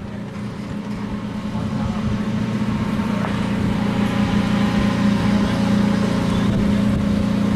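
Open-wheel race car engines running at speed on the circuit. The engine note holds a steady pitch and grows gradually louder as the cars come closer.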